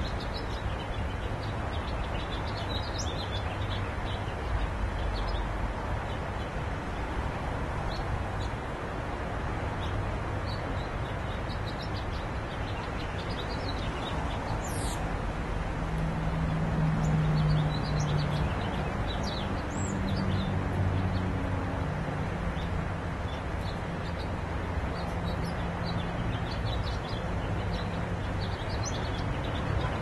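Small birds chirping now and then in short high notes over a steady low outdoor rumble, with a low hum swelling for a few seconds about halfway through.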